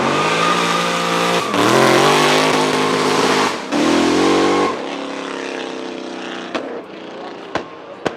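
Drift car engine revving hard, its pitch sweeping up and down and breaking off briefly twice, then falling to a quieter, steadier note about halfway through. A few sharp cracks sound near the end.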